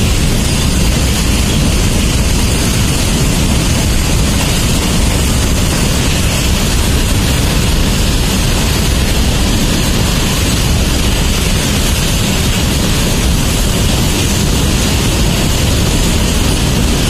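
Freight train of covered goods wagons passing close by: a steady, loud rolling noise of wheels on rail with a deep rumble underneath, unbroken throughout.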